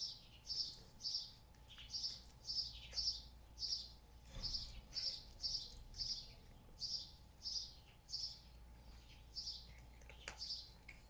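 A small bird chirping over and over, short high chirps at an even pace of about two a second.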